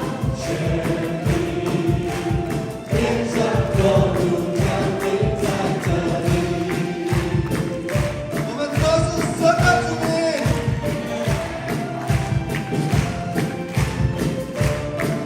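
Live worship music: a band plays a steady, even beat while a group of voices sings.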